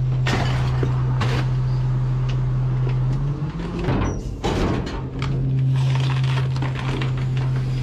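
Garbage truck engine running with a steady low drone, with scattered knocks and short hisses over it; the drone dips briefly about three and a half seconds in.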